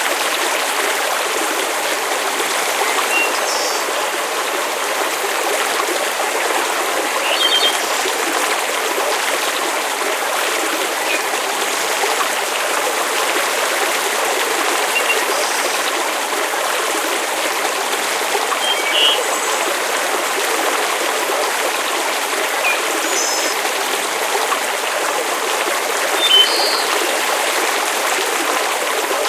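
Steady rushing hiss of water or rain, with about a dozen short campfire pops scattered through it; the sharpest comes near the end.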